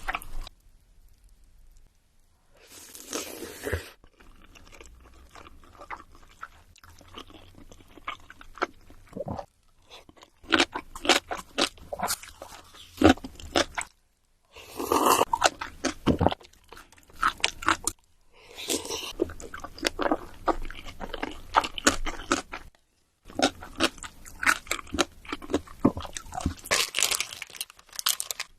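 Close-miked eating: crunchy food bitten and chewed in runs of crisp crunches several seconds long, broken by a few short silent gaps.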